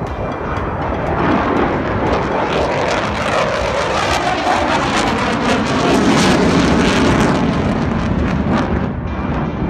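Jet aircraft flying past: a loud rushing engine noise that builds to a peak about six seconds in and then eases slightly.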